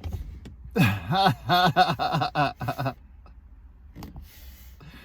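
A person laughing in a short run of quick chuckling bursts for about two seconds, over a low steady rumble.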